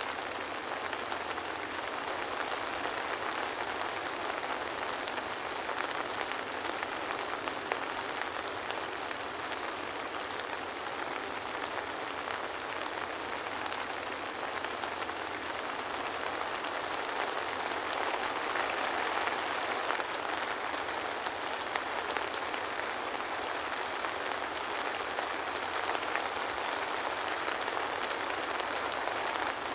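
Steady soft rain falling, an even hiss with scattered individual drop ticks, no thunder.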